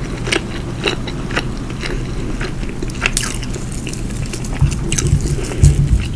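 Close-miked chewing and biting of soft food, with many short wet mouth clicks. Heavier low thuds join in during the last second and a half.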